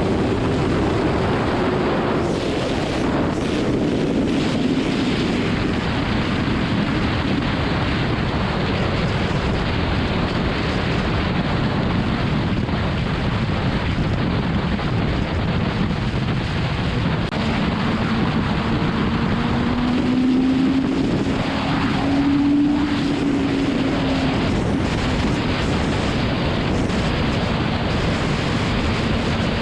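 BMW S1000RR's inline-four engine running at road speed under heavy wind rush on the microphone. The engine note rises for a couple of seconds about two-thirds of the way in, then settles back.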